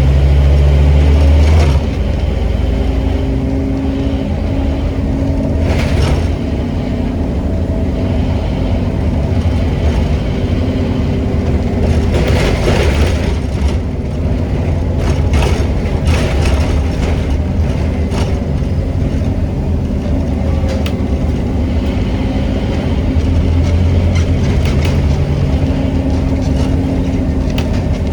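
Scania N270UD OmniCity double-decker bus heard from on board, its five-cylinder diesel running under way. The engine note drops about two seconds in and swells again later, with brief rattling noises over it in the middle.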